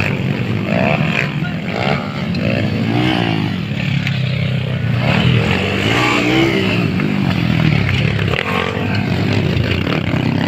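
Motocross dirt bike engines revving up and down repeatedly over a constant low engine rumble, as the bikes race around the track.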